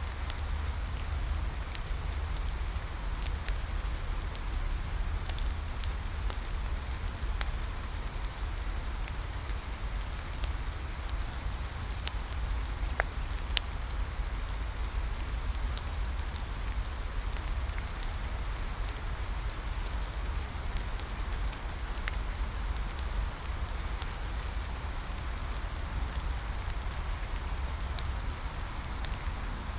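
Steady rain falling, over a low rumble, with scattered sharp clicks and crackles of a wood bonfire.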